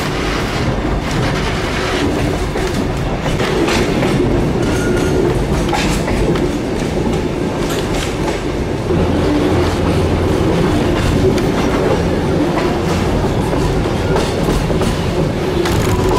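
Passenger train running on narrow-gauge track, heard from aboard: a steady rumble of wheels on rail with irregular clicks and clacks as the wheels pass over rail joints.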